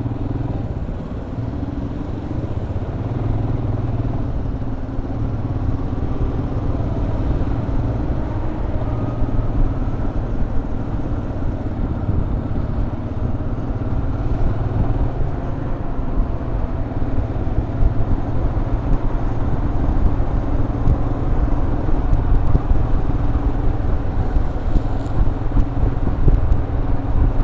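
Motorcycle engine running steadily while riding, with a continuous road and wind rush over it.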